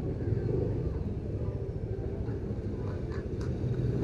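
Motorcycle engine running with a steady low drone, heard from the rider's position.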